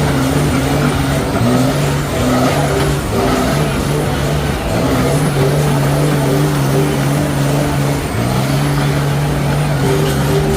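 Mud truck's engine running hard and loud, held at a steady pitch, dipping briefly three times.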